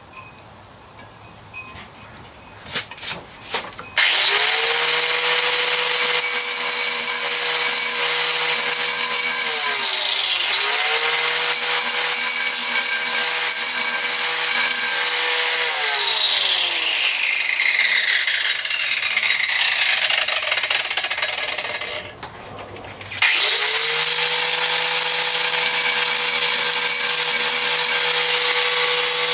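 Handheld electric grinder spinning up with a steady whine after a few handling clicks. It dips and picks up again, then winds down with a falling pitch over several seconds, and starts up once more near the end.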